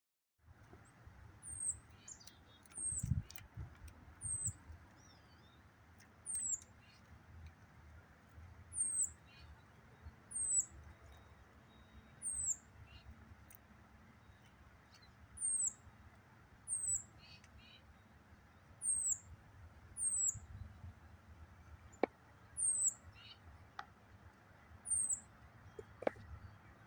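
A small bird's short, high, downward-slurred call notes, repeated every one to two seconds, with two sharp taps near the end.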